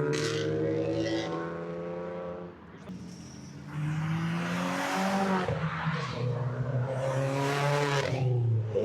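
Car engines accelerating past one after another: the first fades out about two and a half seconds in, then a second car comes through from about four seconds in, its engine pitch rising and falling.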